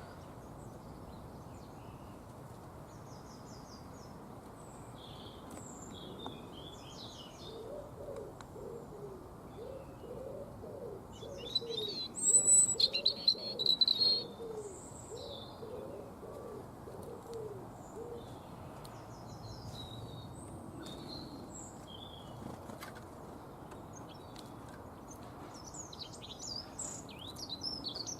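Small garden birds chirping and trilling, with a loud burst of calls about twelve seconds in and another flurry near the end, over a steady low background rumble.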